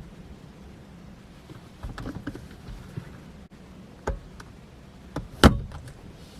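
Car door and interior handling: a few clicks and knocks, then one loud thump about five and a half seconds in, over a steady low hum.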